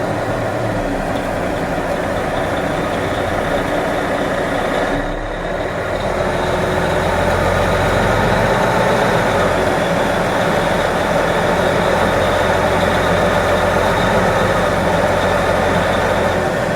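Snowplow truck's engine running steadily, heard from inside the cab, with a brief dip in level about five seconds in.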